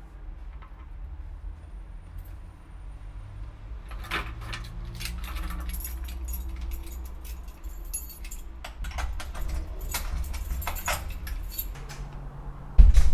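Keys jangling and clinking for several seconds over a low rumble, then a single heavy thump near the end.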